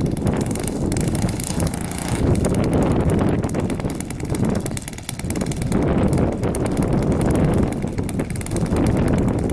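Wind buffeting the microphone, a low rumble that rises and falls in gusts and eases briefly about five seconds in.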